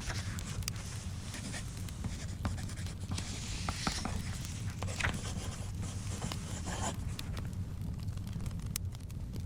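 Wood fire crackling in a fireplace: a steady low rumble with scattered sharp pops. Paper rustles about three seconds in, like a book page being turned.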